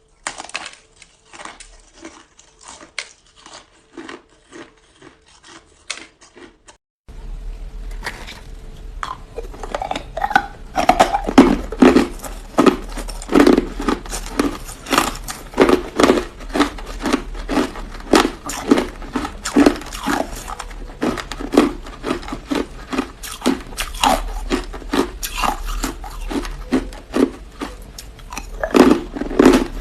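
Close-miked crunching of hard frozen Coke ice being bitten and chewed, a steady run of crackling crunches. It is faint at first and turns much louder about seven seconds in, with strong crunches about twice a second.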